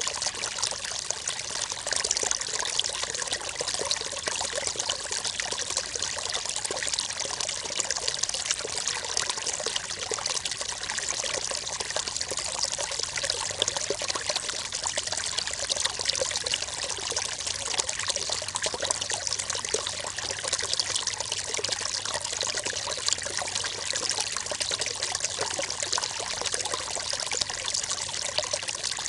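Shallow river water running and splashing steadily, a continuous babble and trickle.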